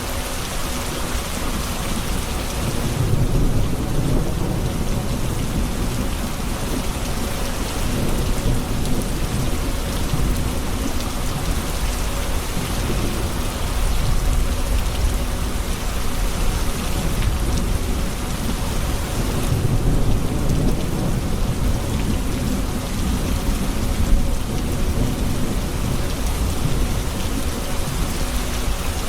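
Steady heavy rain falling, with low rolling thunder rumbling under it that swells about three seconds in and again near twenty seconds.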